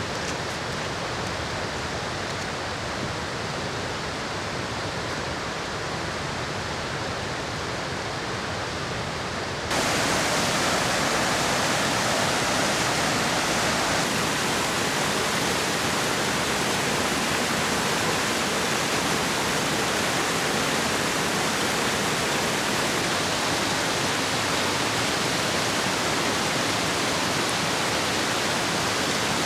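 A mountain river rushing in a steady, even roar of water. About ten seconds in it steps suddenly louder and brighter, then holds steady.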